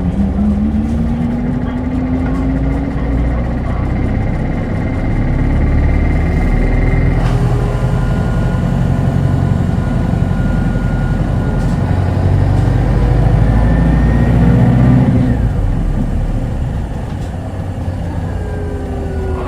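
Onboard running sound of a Hino Blue Ribbon hybrid city bus (2SG-HL2ANBP): a deep engine rumble with a whine that rises as it pulls away over the first few seconds, runs steady through the middle, and falls away near the end as the bus slows.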